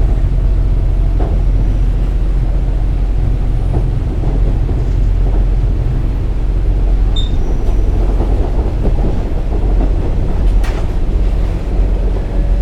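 Inside a KiHa 47 diesel railcar on the move: steady low rumble of the diesel engine and wheels on the rails, with a brief faint high squeak about seven seconds in and a faint click near the end.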